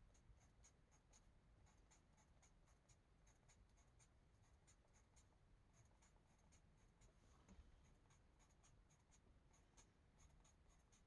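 Faint, quick scratching of a colouring tool on a paper page, short strokes at roughly three or four a second.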